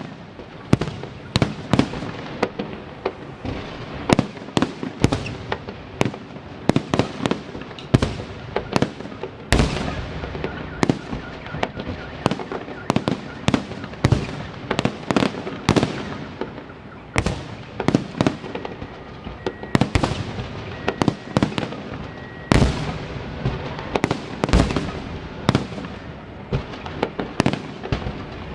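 Festive fireworks salute: a dense, irregular string of sharp bangs, one to three a second, each trailing off in echo.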